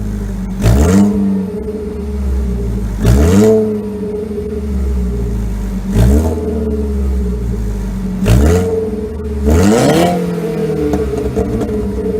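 Ford Focus SE exhaust with the muffler deleted (Y-pipe to dual tips): the engine idles and is blipped up and dropped back to idle about five times, every two to three seconds, the last rev a little longer.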